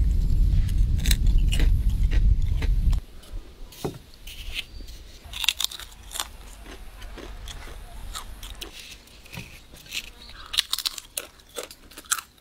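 Crisp homemade fried potato chips being bitten and chewed: a string of short, sharp crunches. For the first three seconds a loud low rumble sits under the crunching, then stops abruptly.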